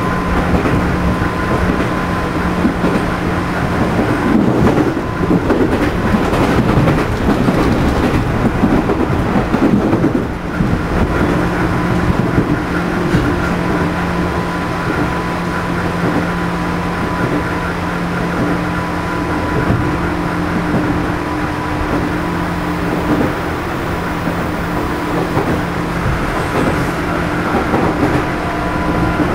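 Running sound of a JR East 211 series electric train heard aboard motor car MoHa 211-1, which has self-ventilated traction motors with external fans. Steady humming tones from the motors and gears sit over continuous rolling noise from the wheels on the rails, rougher for a few seconds near the start.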